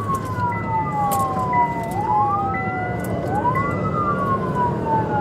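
Police sirens wailing, two of them out of step, each rising quickly and falling slowly, over steady road and engine noise, with a faint short beep repeating.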